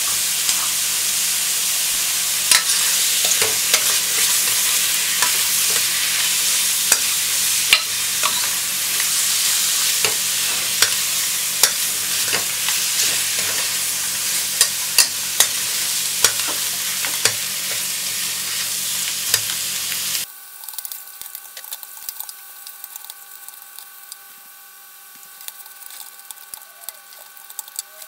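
Diced chicken, onion and shiitake frying in butter in a stainless steel pan: a steady sizzle with clicks and scrapes of a metal ladle stirring. About two-thirds through the sizzle cuts off suddenly, leaving quieter ladle clicks over a faint steady hum.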